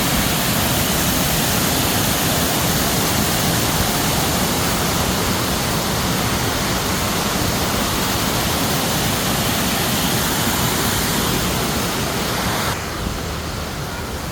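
Waterfall: a loud, steady rush of falling water. Near the end it drops abruptly to a quieter, duller rush.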